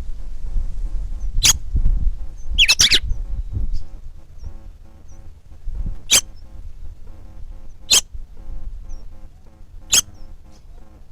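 Short, sharp bird calls, a cluster near the start and then single calls about every two seconds, over background music. There is low rumble in the first few seconds.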